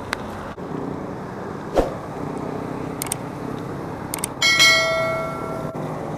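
A bicycle bell struck once a little past halfway, ringing out and fading over about a second and a half, over steady road and traffic noise with a few light clicks.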